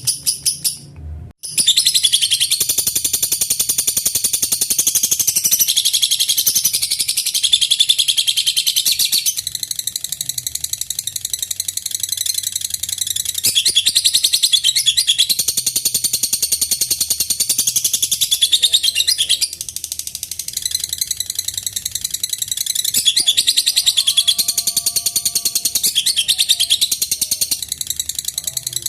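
Lovebird ngekek: a long, unbroken, high-pitched chattering trill of very rapid notes. It starts again after a brief break about a second in.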